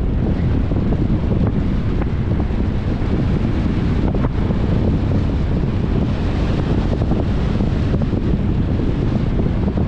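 Wind buffeting the microphone of a camera mounted on a moving car, over a steady low rumble of tyres on the road. The rumble holds at an even level, with a few faint ticks.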